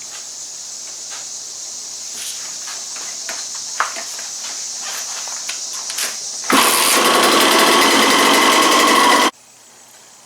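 Suzuki RM85's two-stroke single-cylinder engine running loudly from about six and a half seconds in, then cutting off abruptly near the end, once the bike has been started to warm up after an oil change. Before it, a steady high hiss with scattered clicks and knocks.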